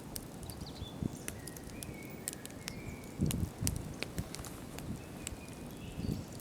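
Wood campfire crackling, with sharp irregular pops and snaps and a few low rumbling swells, the strongest about a third of the way in. Brief faint high whistles come and go.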